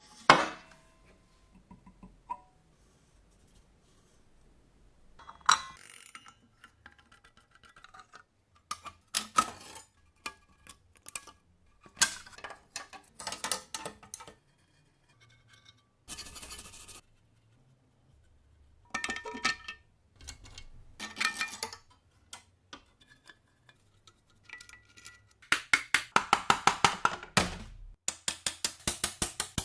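Metal parts and hand tools clinking and knocking as they are handled, in scattered short bursts, then a fast run of even clicks near the end.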